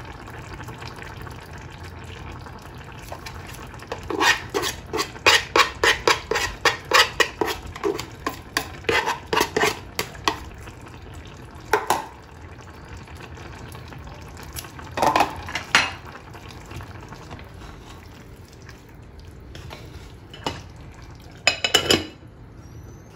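A kitchen utensil clinking against a dish in a quick run of strokes, about three a second for some six seconds, as in stirring or mixing. It is followed by a few single clinks and clatters of dishware.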